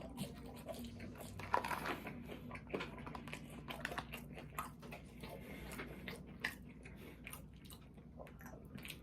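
A person chewing and biting food close to the microphone: irregular wet mouth clicks and crunches, with the loudest bite about a second and a half in.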